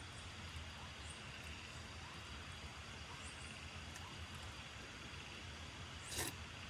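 Steady rain falling, a faint even hiss with a low rumble under it. A brief rustle about six seconds in.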